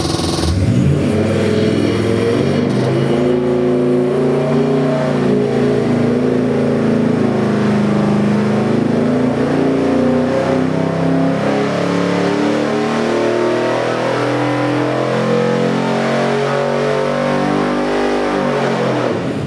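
Chevy 427 small-block stroker V8 with a Holley carburetor, running and revving: its pitch rises and falls several times, then it cuts off near the end.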